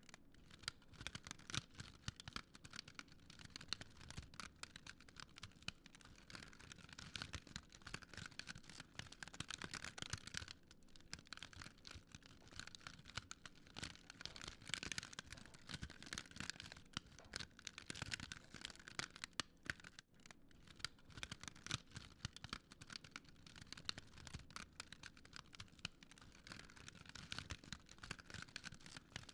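Fire crackling: a dense, irregular stream of small snaps and pops.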